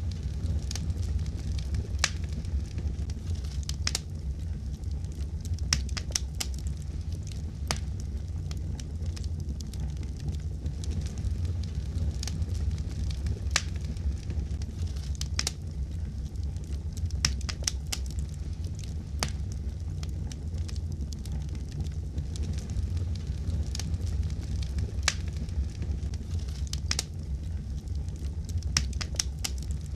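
Wood fire crackling in a fireplace: a steady low rumble of flames with irregular sharp pops and snaps, several at a time in quick clusters.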